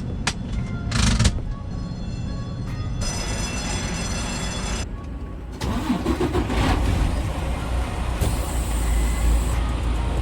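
Semi truck's diesel engine running with road noise, a steady low rumble whose character changes abruptly several times.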